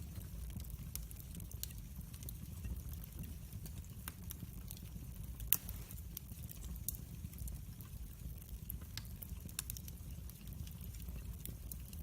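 Log fire burning in a fireplace, crackling with scattered pops and one louder snap about halfway through, over a steady low rumble.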